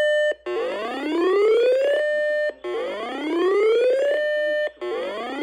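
Electronic whooping alert tone, as used for broadcast severe-weather warnings: a pitch rises smoothly for about a second and a half, holds briefly, then cuts off and starts again about every two seconds. There are two full whoops, and a third breaks off as it rises near the end.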